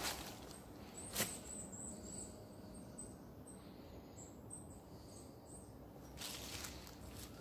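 Faint, very high-pitched bird calls: a scatter of short chirps. A sharp knock comes about a second in, and a brief rustle near the end.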